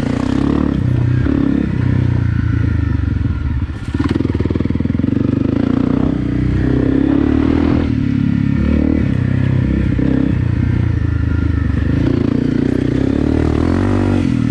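Honda CRF250 Rally's single-cylinder four-stroke engine under way, its revs rising and falling as the rear wheel slides in slippery mud. The engine briefly drops off about four seconds in.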